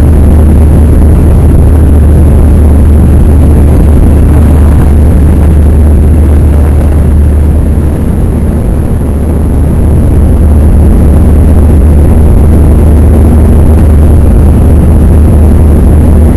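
Airliner's jet engines at takeoff power: a loud, steady, deep rumble with a noisy roar over it, easing slightly for a moment about halfway through.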